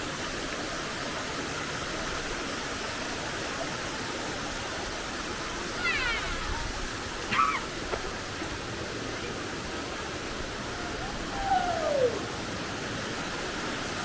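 Waterfall rushing steadily. A few brief sliding calls cut through it about six, seven and twelve seconds in; the last one falls in pitch.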